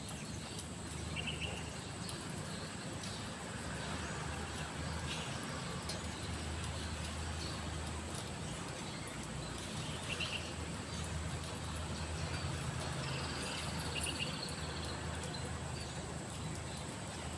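Frogs calling after rain: a few brief, faint chirps about a second in, around ten seconds and again near fourteen seconds, over a steady low background hum.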